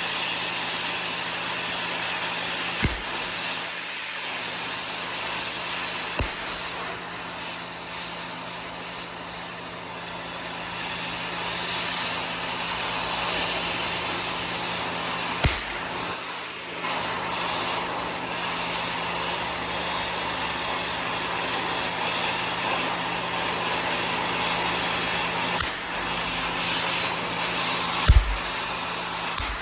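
Oxy-acetylene torch with a scarfing tip gouging out welds: a steady hiss of the oxygen jet blowing molten metal out, broken by a few sharp thumps.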